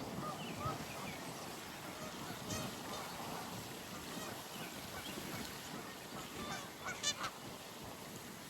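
Pond birds calling over a steady background hiss: short scattered calls, with two quick rapid trills about two and a half and seven seconds in.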